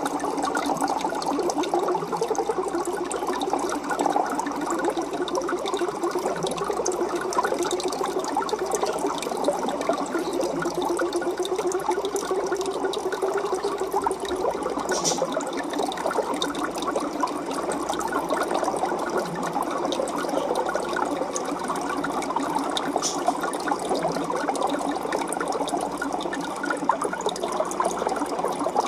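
Aquarium water burbling and churning steadily, with a couple of brief high ticks.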